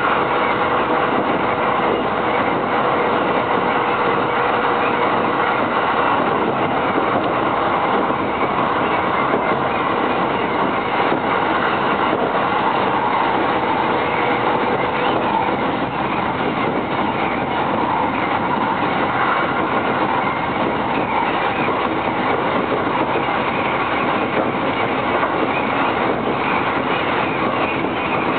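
JR East commuter train running at speed, heard from inside the car: a steady rumble of wheels on rail, with a faint steady tone that fades out about halfway.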